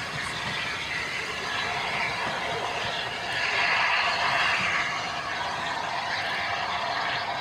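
Steam-hauled passenger train running away along the track, the coaches' wheels rolling on the rails as a steady rumbling noise, a little louder for about a second around four seconds in.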